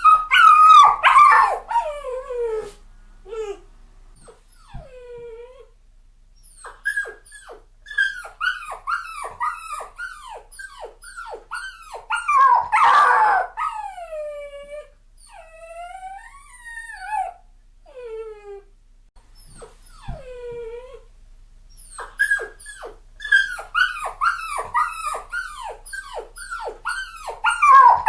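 A puppy crying: strings of high-pitched whimpers and yelps, each falling in pitch, coming in bursts with short pauses. Louder, longer cries come about a second in, near the middle and at the very end.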